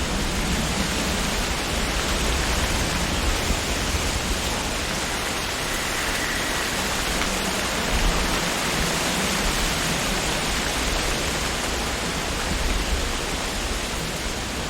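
Wind blowing through tree leaves: a steady rushing of rustling foliage with low gusty rumble, swelling slightly now and then.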